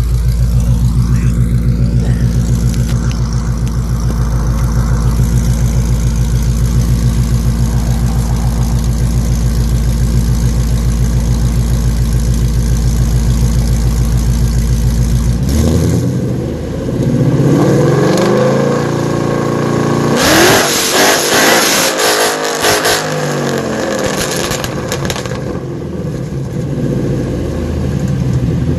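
A 2015–2017 Ford Mustang GT's 5.0 V8 idling steadily through new Borla mufflers, then revved up about halfway in with rising pitch and a few seconds of sharp crackling at the top before settling back to idle.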